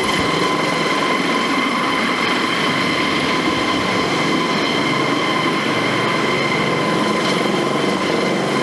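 Eurocopter AS365 Dauphin twin-turboshaft helicopter running steadily: a constant rush of noise with an even, high-pitched whine of several steady tones over it.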